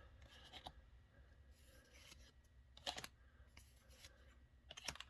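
Faint rustling and flicking of trading cards being flipped through one at a time, with a sharp card snap about three seconds in and another near the end.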